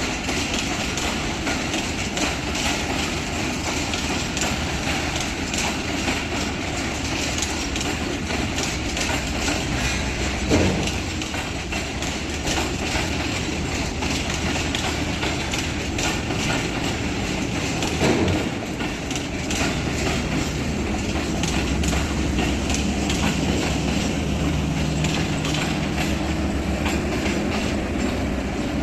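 Train running on the track, its wheels clicking over rail joints, with two brief louder knocks about a third and two-thirds of the way through. A low steady hum comes in near the end.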